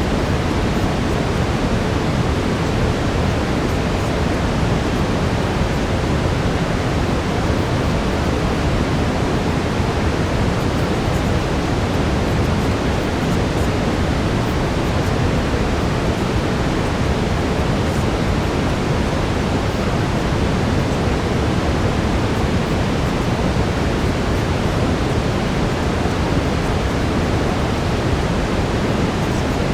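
Steady brown noise, an even rushing hiss weighted toward the low end, with a faint 432 Hz tone beneath it.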